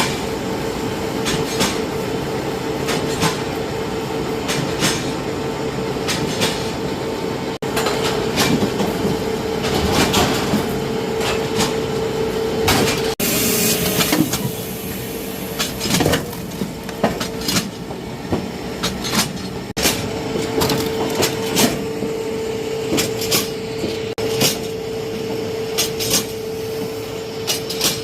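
Log-splitting machine running with a steady hum, broken by repeated sharp cracks and knocks as oak logs are split. A louder, hissing stretch comes about halfway through.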